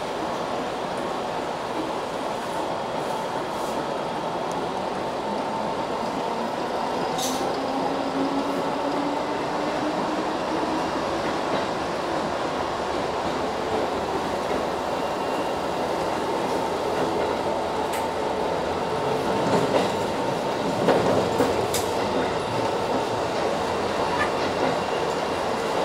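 Seibu 3000-series electric train running, heard from inside its lead car: steady running noise with a whine rising in pitch about eight seconds in, and a few sharp clicks.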